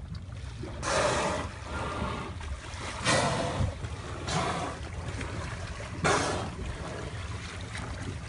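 Water splashing close to a boat in four short rushes, the second and last the loudest, over a steady low rumble.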